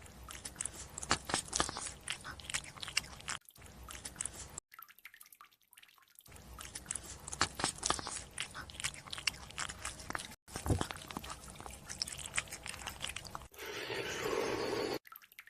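Loud, close-up chewing with crunching and wet mouth clicks, in several stretches broken by short silences. Near the end it gives way to a steadier rushing, sucking sound that lasts about a second and a half.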